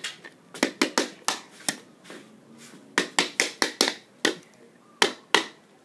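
A hammer striking a plastic Magic 8 Ball: about a dozen sharp knocks in three quick runs.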